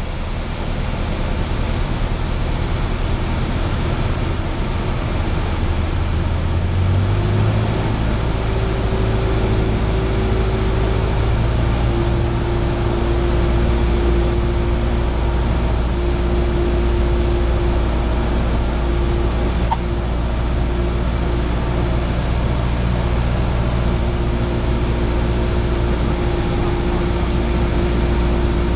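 Cessna 172R's four-cylinder Lycoming engine and propeller droning steadily in flight, its pitch stepping up slightly about seven seconds in.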